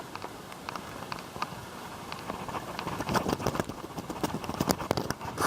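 Footsteps on an asphalt-shingle roof, with irregular scuffs and light knocks as someone walks across the slope, bunched about three seconds in and again near the end.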